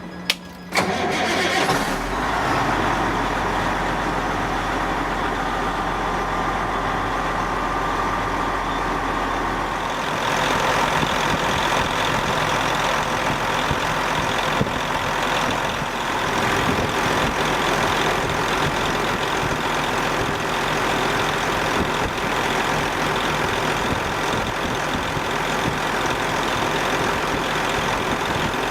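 Vehicle engine being started: a brief crank and sharp bangs under a second in, then the engine catches and runs steadily at idle, its sound shifting slightly about ten seconds in.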